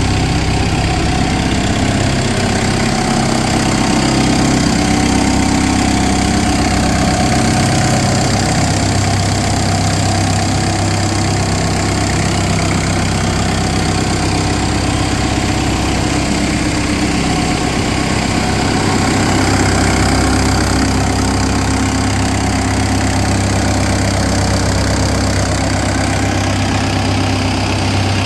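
Airman PDS 175 portable air compressor's Isuzu diesel engine running steadily.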